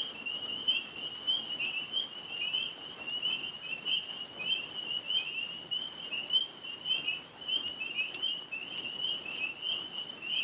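A chorus of tree frogs calling: many short, chirping calls overlapping in a steady, unbroken band of high-pitched sound.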